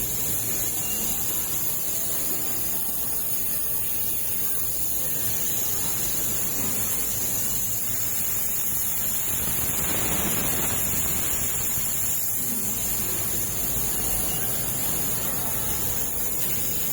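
Steady, even hiss that holds at one level throughout, with no distinct events.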